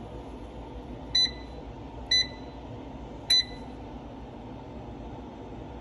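Three short electronic beeps, about a second apart, from a kitchen appliance's beeper, over a steady low hum.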